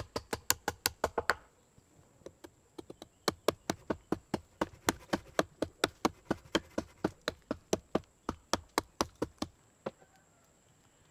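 Rapid, repeated knocks of a hand tool striking wood. A quick burst of strikes opens, then after a short pause a steady run of about four strikes a second lasts some seven seconds and stops near the end.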